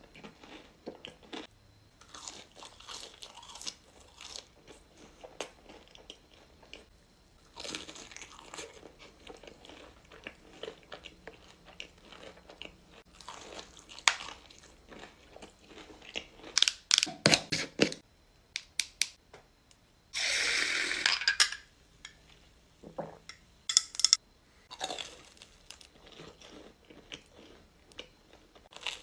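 Close-miked eating: a run of crunchy bites and chewing, with sharp crackles through it. About two-thirds through comes a louder, noisy burst lasting over a second.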